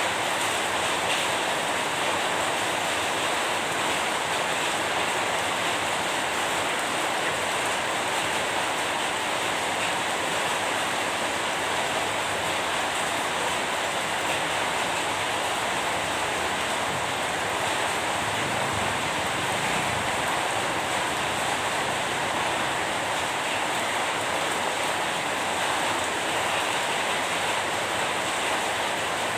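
Steady, heavy rain falling without a break, an even wash of noise.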